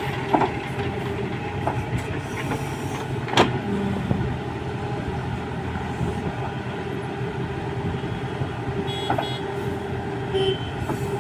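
Diesel engine of a JCB 3DX backhoe loader running steadily, with a few sharp metallic clanks, the loudest about three and a half seconds in.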